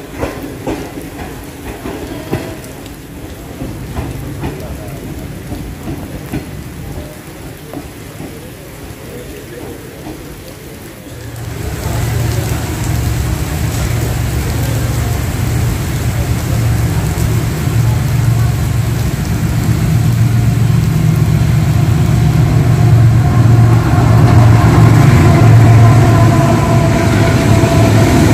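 Steady rain with a few clicks. Then, about eleven seconds in, a diesel locomotive's engine comes in as a deep steady rumble that grows steadily louder as it approaches.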